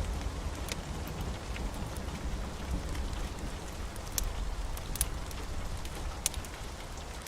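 Steady rain falling, an even hiss over a deep low rumble, with a few sharp separate clicks about a second apart.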